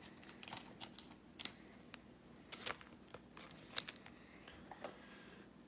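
Trading cards being handled and stacked on a table: faint, irregular clicks and taps, with two sharper ones around the middle.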